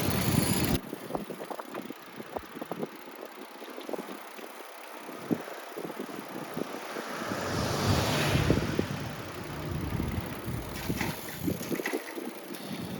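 Outdoor background noise with wind buffeting the microphone and scattered small knocks. About eight seconds in, a broad rushing sound swells and fades.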